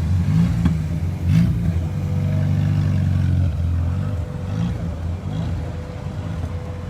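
A car engine rumbling at low speed as a car rolls past, loudest in the first half and then fading.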